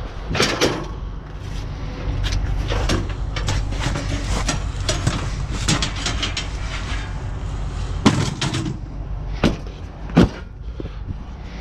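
Scrap and junk being handled: a string of knocks and clanks, the sharpest ones about half a second in, around eight seconds and just after ten seconds, over a steady low rumble.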